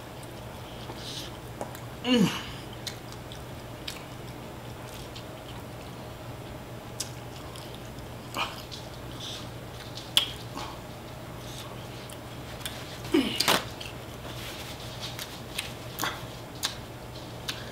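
A person eating spicy sauced chicken drumsticks: quiet chewing and mouth smacks with scattered short clicks. Twice, about two seconds in and again near thirteen seconds, a short wordless moan comes as a reaction to the hot sauce. A steady low hum runs underneath.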